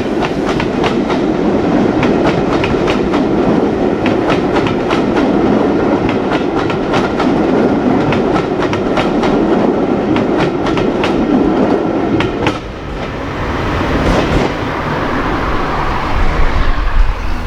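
A heritage steam-hauled train rolling past, its carriage wheels clicking steadily over the rail joints over a constant rumble. About two-thirds of the way in the clicking stops and the sound drops to a softer rumble, and a loud low rumble comes up near the end.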